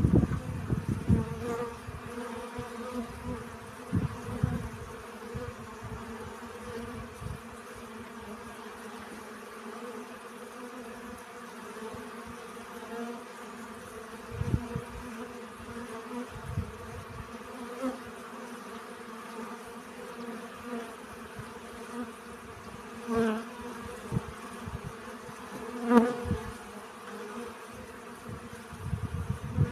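Bees buzzing while they forage for pollen: a steady hum with a few brief swells as a bee comes close, the loudest near the end.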